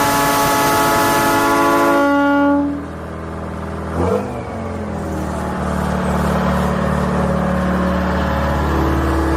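A loud, steady horn blast of several tones at once, cut off about two and a half seconds in. After it, a vehicle engine runs steadily, with a short knock about a second later.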